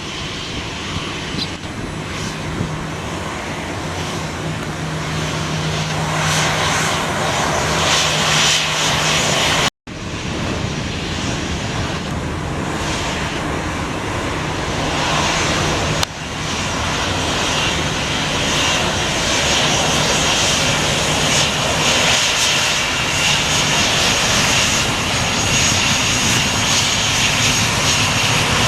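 Garuda Indonesia airliner's engines running at high power for takeoff, growing louder, with a steady low hum under a high whine. The sound drops out for an instant about ten seconds in.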